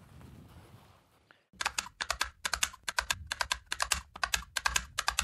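Rapid typing on a computer keyboard, several keystrokes a second, starting abruptly about a second and a half in after faint outdoor background noise.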